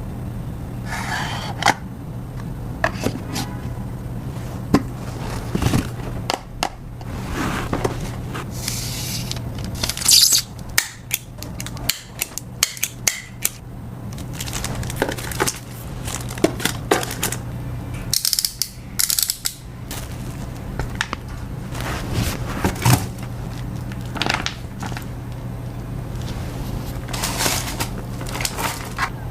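Hands packing an iPhone 8: an irregular run of taps, clicks and scrapes, with several brief rustles of packaging, over a steady low hum.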